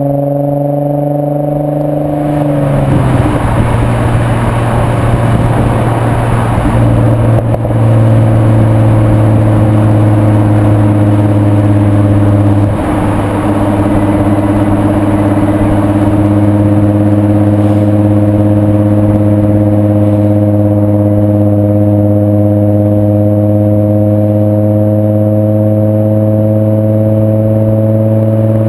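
Volkswagen 2.8-litre VR6 24-valve engine running through a non-resonated Milltek exhaust while driving. Its pitch drops once about two to three seconds in, then it settles into a steady drone that creeps slowly higher.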